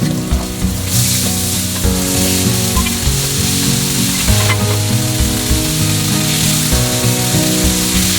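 Breaded chicken pieces sizzling in hot cooking oil during a second fry for extra crispness; the hiss grows louder about a second in.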